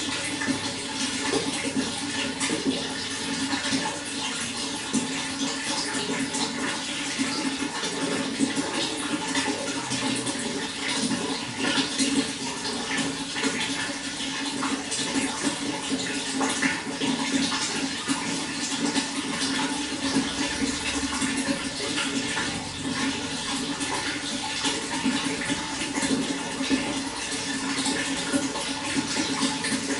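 Running water flowing steadily, a continuous rushing with many small splashes throughout.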